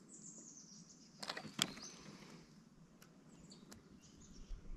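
Faint bird chirps over a quiet background, with a few sharp clicks about a second and a half in.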